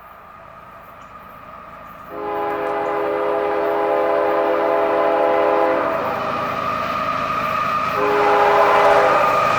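A CSX GE freight locomotive's air horn sounds a long chord blast starting about two seconds in, then a second blast near the end, over the rising rumble of the approaching train. This is the horn pattern sounded at the Pump Rd grade crossing.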